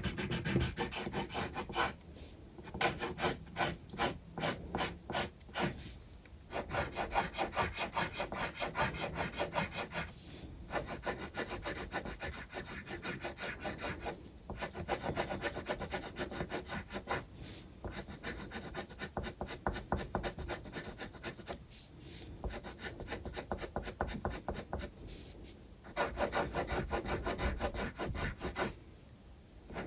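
Graphite pencil scratching on sketchbook paper in quick, repeated strokes, in runs of a few seconds broken by short pauses.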